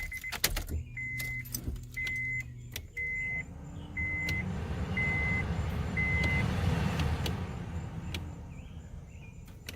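A 2010 Honda Fit's new heater/AC blower motor spins up with a rising whine and a building rush of air, then winds down near the end: the replaced fan is working. Over its start a car chime beeps about once a second, six times, with a few clicks.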